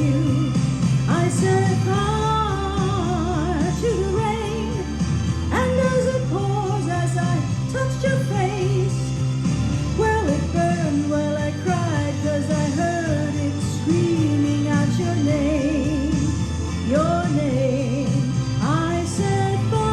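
A pop song with a singer's drawn-out, gliding vocal lines over a full band accompaniment with steady bass and drums.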